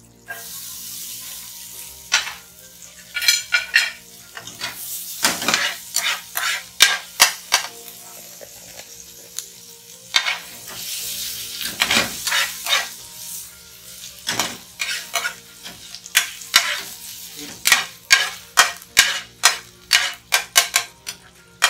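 Sliced ginger sizzling in hot oil and butter in a frying pan, being sautéed until it turns fragrant. A spatula scrapes and knocks against the pan throughout, its strokes quickening to about two a second near the end.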